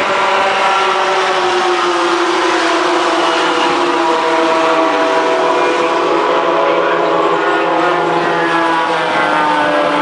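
A pack of racing pickup trucks' 16-valve twin-cam four-cylinder engines running together on a rolling warm-up lap, the engine note sliding slowly lower over the first few seconds and then holding steady.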